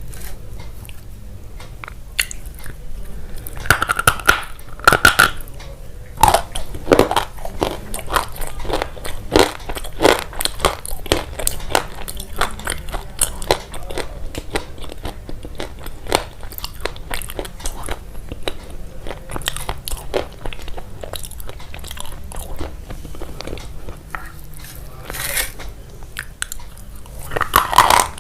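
Chewing and biting on something crunchy: a dense, irregular run of sharp crunches, loudest about four to six seconds in.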